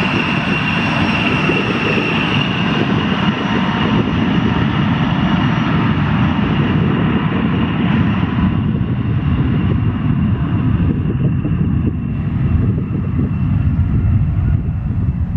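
Bombardier CRJ-200 regional jet's twin turbofan engines at high power: a steady high jet whine over a heavy rumble. The high whine thins out over the second half as the jet moves off.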